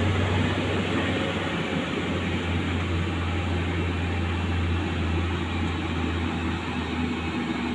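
Diesel truck engine running with a steady low drone, under traffic noise.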